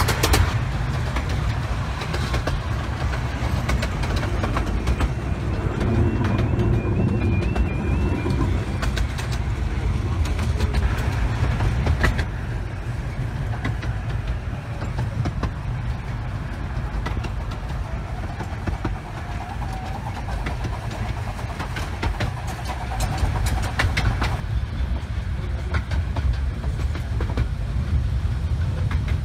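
A 15-inch-gauge miniature railway carriage running along the track, heard from on board: a steady low rumble of the wheels with frequent clicks from the rail joints.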